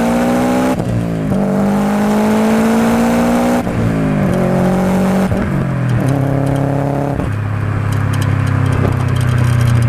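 Subaru Impreza WRX STi's turbocharged flat-four engine and exhaust under acceleration: the pitch climbs, then drops sharply at each of several gear changes, settling into a steady lower drone near the end.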